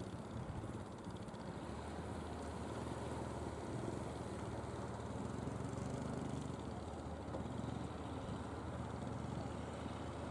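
Fishing boat engine running steadily, a low hum that firms up after about a second and a half and is strongest through the middle, over a constant background wash.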